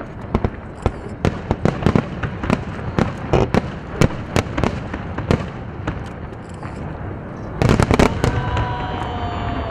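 Aerial fireworks exploding: a rapid, irregular series of sharp bangs and crackles, building to a dense, loud volley near the end.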